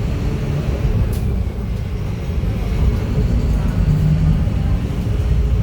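Scania F250HB bus diesel engine running with a steady low rumble, and a brief click about a second in.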